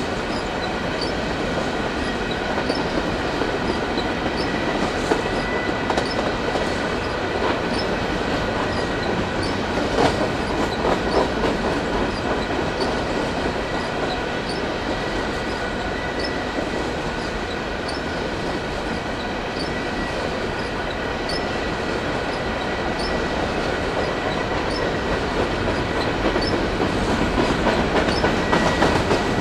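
Empty covered hopper cars of a freight train rolling past, with steady wheel and rail noise, clickety-clack over the rail joints and a thin steady wheel squeal. The noise grows a little louder near the end.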